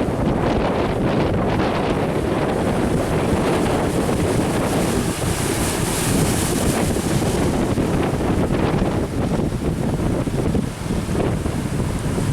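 Strong wind buffeting the microphone, with sea waves and surf beneath it; a steady, rumbling rush.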